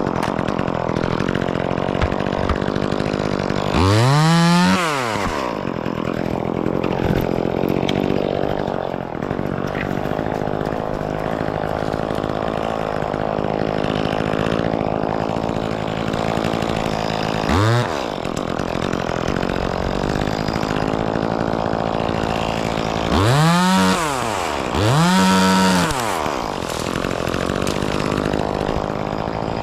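Chainsaw engine idling steadily, revved up and back down briefly four times.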